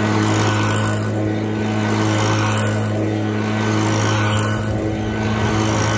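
Leaf blower running steadily, a strong even hum with overtones over a rush of blown air.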